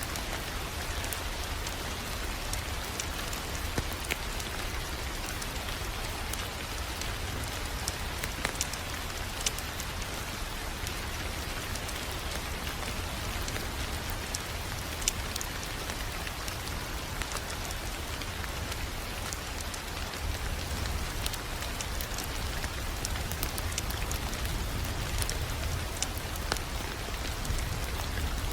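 Crackling wood fire: a steady hiss over a low rumble, with scattered sharp pops and snaps.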